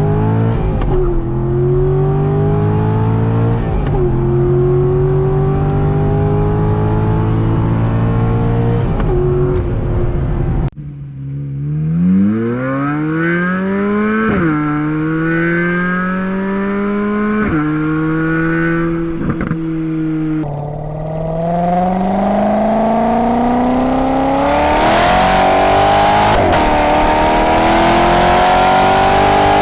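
Corvette Z06 V8 under hard acceleration, its note climbing through each gear and dropping sharply at every upshift. It comes in three separate runs, cut about a third and two thirds of the way through. The last run is louder and brighter, rising steadily to the end.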